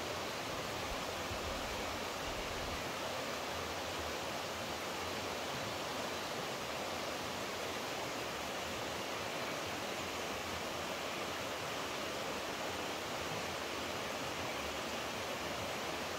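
Steady rush of flowing water, an even unbroken noise with no change in level.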